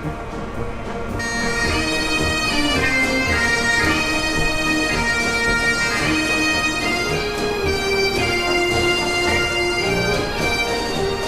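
Bagpipes playing a tune, coming in about a second in.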